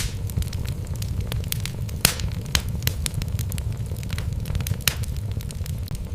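Wood fire burning in a fireplace: a steady low rumble of flames with frequent sharp crackles and pops from the burning logs. One pop about two seconds in is louder than the rest.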